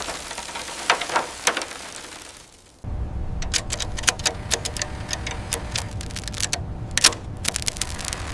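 Irregular sharp clicks and taps. About three seconds in, the sound changes abruptly to a steady low rumble with many rapid clicks over it.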